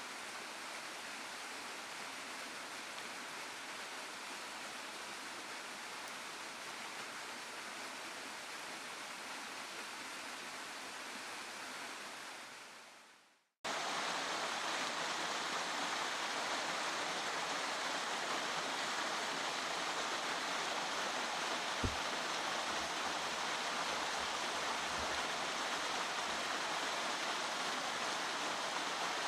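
Steady rush of a waterfall and stream. It fades out about halfway through, then comes back louder after a sudden cut, with one brief low thump a little later.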